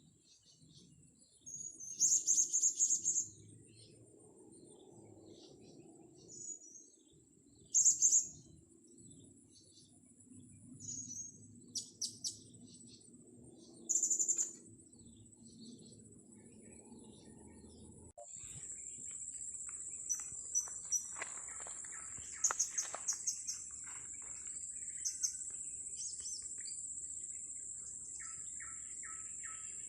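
Blue-crowned hanging parrots (serindit) giving short, thin, very high-pitched chirps in scattered bursts, with a steady high insect drone that grows louder about two-thirds of the way in.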